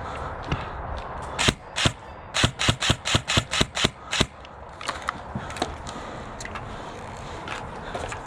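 Airsoft gun shots: two single shots, then a quick string of about ten rapid shots, before the firing stops.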